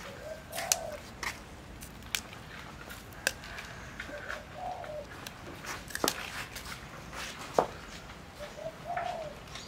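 A bird cooing three times, short low calls a few seconds apart, with scattered sharp clicks and snaps in between.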